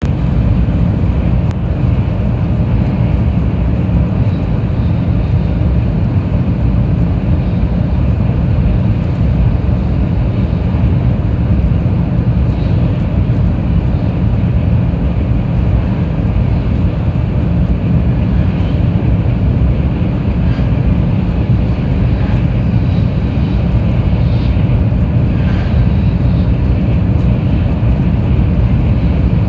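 Steady low rumble of a Taiwan High Speed Rail 700T train running at speed, heard inside the passenger cabin. Faint, scattered ticks of heavy rain strike the window glass.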